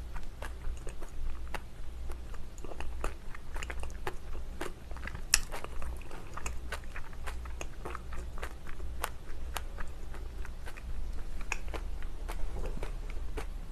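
Close-miked chewing and biting of a spicy, red-sauced dumpling: irregular wet mouth clicks and smacks, one sharper bite about five seconds in, over a steady low hum.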